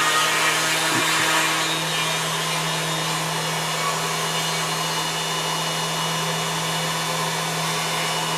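Plunge router running at steady speed with a constant hum and hiss as its bit cuts letters into a wooden board. It is louder for the first couple of seconds.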